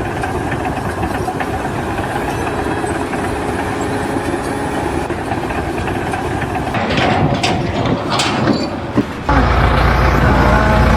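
A heavy engine running steadily, with a few sharp knocks about seven to eight seconds in. Just past nine seconds the sound switches abruptly to a louder, deeper engine rumble.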